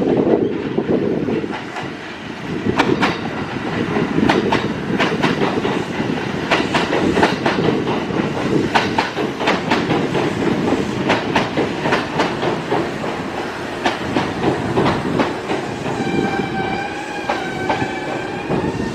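Kintetsu Kyoto Line electric train running through the station, its wheels clicking over the rail joints over a steady rumble. Near the end a steady high tone with overtones rises above it.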